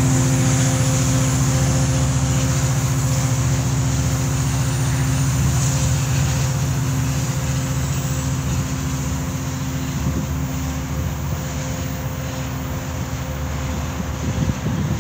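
Diesel commuter train's locomotive engine running at steady revs with a low, even hum as the train pulls away, slowly fading.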